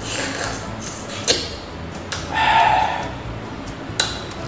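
Close-miked eating of fresh pineapple: wet biting and chewing of the juicy flesh, with a sharp crisp bite about a second in, a louder mouth sound lasting under a second around the middle, and another sharp click near the end.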